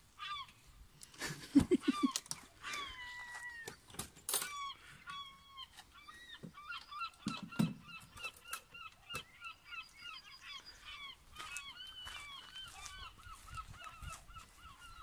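Birds calling over and over, with short chirping calls that hook up and down in pitch and come as a fast run of several a second through the middle and later part. A few sharp clicks and two short low thuds sound among them.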